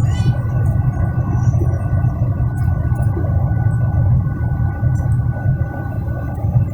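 Steady engine and airflow drone inside a Boeing 737's passenger cabin: a deep rumble with two faint steady whining tones over it.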